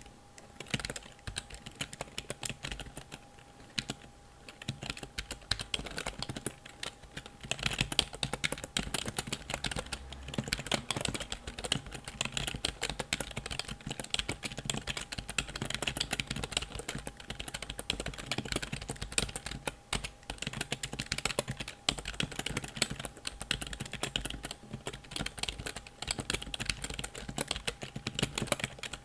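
Computer keyboard keys clicking in a fast, unbroken patter of typing and tapping, with a faint steady tone underneath.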